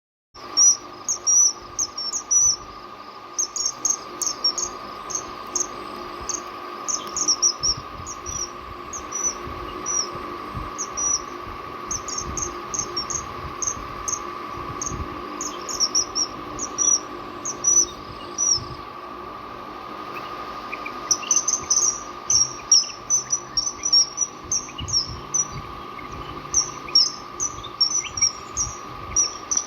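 Common kingfisher calling: runs of short, high-pitched notes repeated rapidly, with a pause of a couple of seconds about two-thirds of the way through. A steady tone hums underneath.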